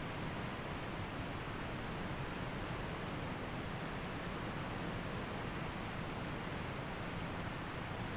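Waterfall and mountain creek water pouring, a steady even noise with no breaks.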